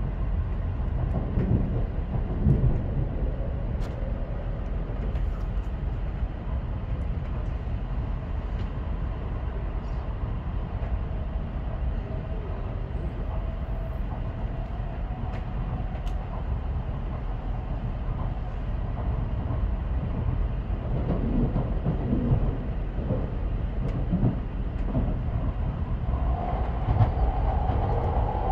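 Cabin running noise of an N700S Shinkansen: a steady low rumble, with a whine coming up more strongly near the end.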